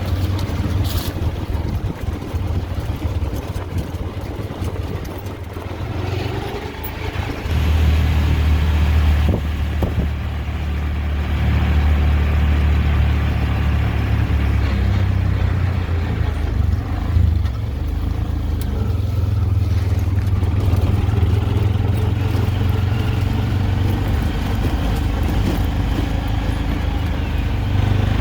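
Steady engine and road rumble of a moving vehicle, growing louder about seven seconds in.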